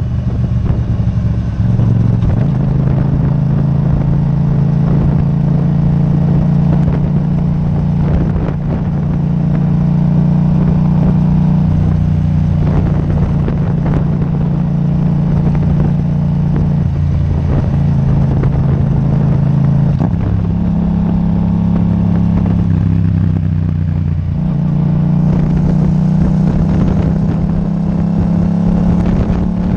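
Yamaha MT-07's parallel-twin engine through an Akrapovic titanium exhaust, running under way at a fairly steady pitch that steps up and down a few times with throttle changes.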